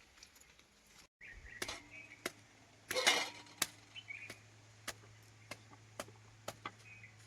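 Knife chopping food with sharp, regular strokes, about one and a half a second, over a steady low hum.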